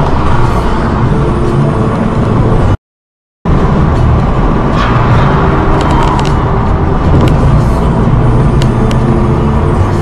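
A car driving, with steady engine and road noise. The sound cuts to silence for about half a second roughly three seconds in, then resumes, with a few light clicks later on.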